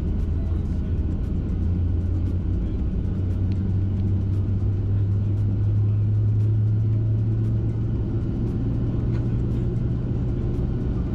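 Boeing 737-800 engine and cabin hum heard from inside the cabin on the ground during pushback and taxi: a steady low drone that rises slightly in pitch about four seconds in.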